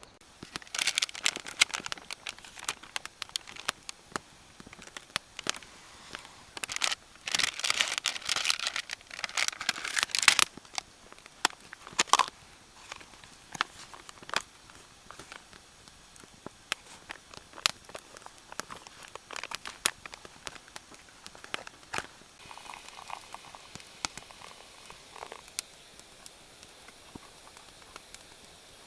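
Wood campfire crackling with irregular sharp pops, with bursts of rustling, crinkling handling noise about a second in and again from about seven to ten seconds.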